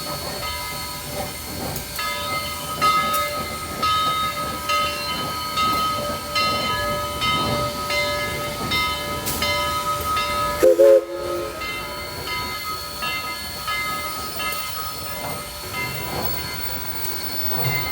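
Train cars rolling past, with wheels squealing in steady high tones and clicking over the rail joints. Near the middle there is a brief, loud tone lasting about half a second.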